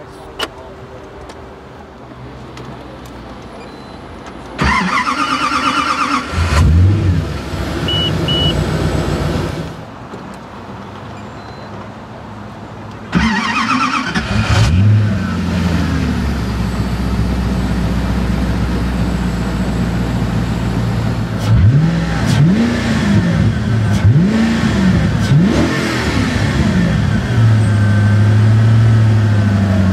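Koenigsegg CCXR's twin-supercharged V8, heard from the cabin, cranked on the starter. It catches with a rev flare, runs a few seconds, then stops. It is cranked again and starts, idles, takes four quick throttle blips, and settles to a steady high idle. Two short chime beeps sound during the first run.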